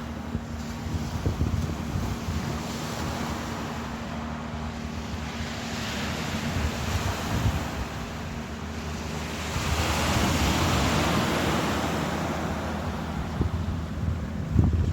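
Ocean waves washing in and out, with one wave swelling loudest about ten seconds in, and wind buffeting the microphone. A low steady hum runs underneath.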